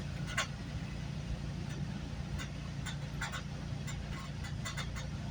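Steady low rumble of a GO Transit commuter train in motion, heard from inside the passenger coach, with scattered short clicks and rattles.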